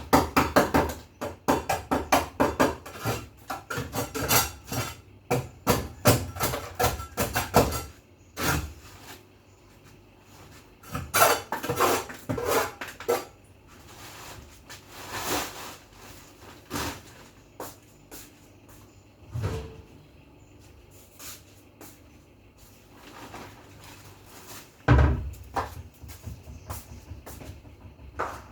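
Hand scrubbing: quick back-and-forth rubbing strokes, about four a second, for the first eight seconds, then more short runs of scrubbing with scattered knocks, and one heavy thump about 25 seconds in.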